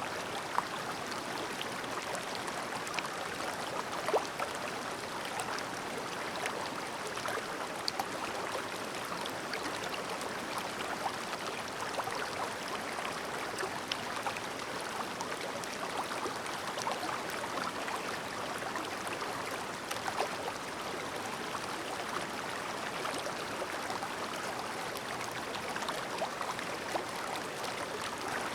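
Clear, shallow stream babbling steadily, with scattered small splashes and drips in the flowing water.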